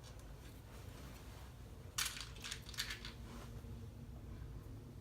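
Loose plastic LEGO pieces clattering and clicking as they are sifted by hand: a burst about two seconds in, then a few lighter clicks, over a steady low hum.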